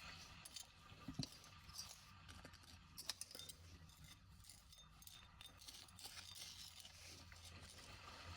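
Faint scattered clicks, taps and light scraping of small hard objects being handled, the sharpest clicks about a second in and about three seconds in, over a low steady hum.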